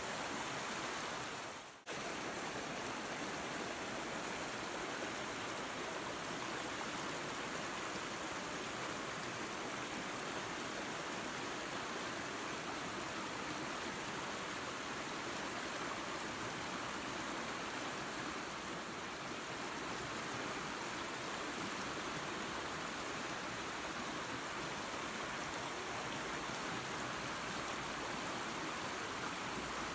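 Waterfall and creek water running with a steady, even rush. About two seconds in, the sound dips sharply to near silence for a moment, then snaps straight back.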